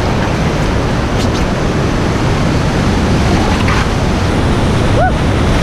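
Loud, steady rush of white-water river rapids, with wind buffeting the microphone.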